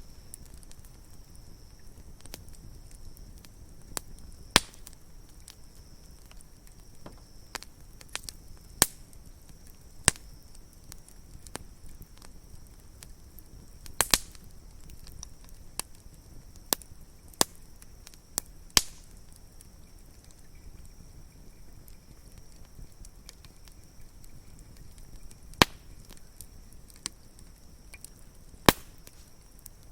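Campfire wood crackling, with a dozen or so sharp pops at irregular intervals over a low, steady background.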